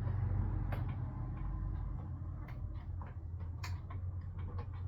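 Small screwdriver and tools clicking and ticking against a smartphone's plastic mid-frame while its screws are driven in, a few scattered light clicks with a quick cluster near the end.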